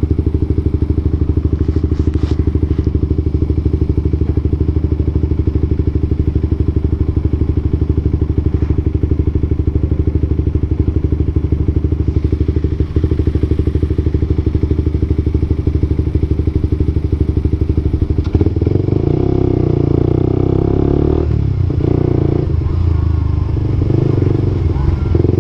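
Suzuki GSX-R125's single-cylinder 125 cc engine through an aftermarket slip-on exhaust, idling steadily, then revved up and down over the last several seconds.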